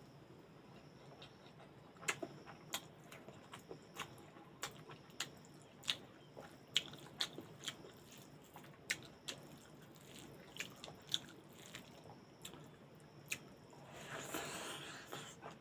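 Close-up eating of rice mixed with cooked greens by hand: a run of short, wet mouth clicks and lip smacks while chewing. Near the end there is a louder stretch of munching as a big handful goes into the mouth.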